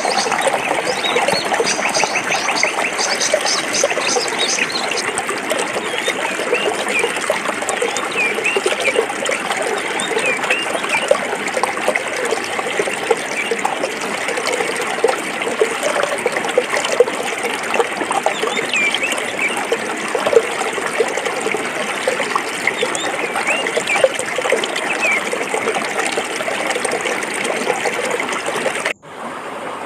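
Forest stream flowing and babbling over rocks, a steady rush full of small splashes, with brief high chirps here and there. The sound drops out abruptly for an instant near the end, then resumes slightly quieter.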